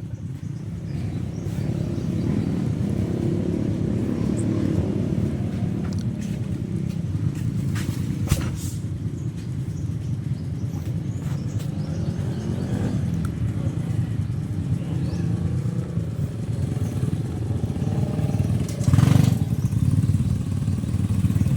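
Motorcycle engine running steadily under load, with a sharp knock about eight seconds in and a louder surge near the end.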